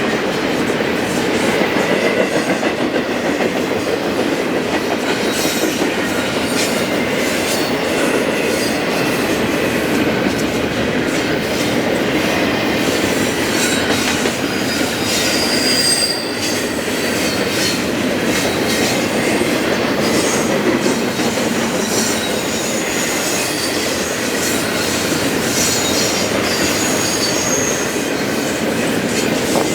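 Freight train cars rolling past on the rails with a steady, dense rumble. Thin high-pitched wheel squeals come and go, most noticeably about halfway through and again near the end.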